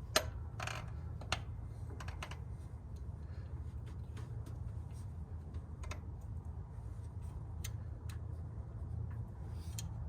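Scattered light clicks and taps from hand tools and small parts being worked on an engine's valve springs, the sharpest just after the start and about a second later, over a steady low hum.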